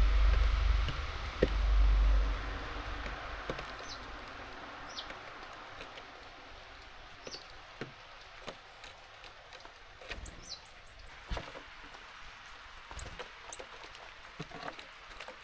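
Small songbirds at a garden seed feeder: a few short, high, falling chirps, and from about the middle on, many small sharp taps and clicks. A low rumble fades out in the first two seconds.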